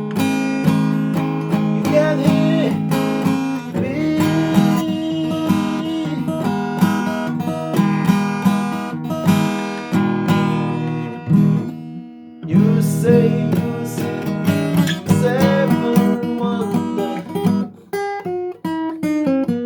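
Instrumental guitar music, acoustic guitar strummed and picked, with a brief break about twelve seconds in and single picked notes near the end.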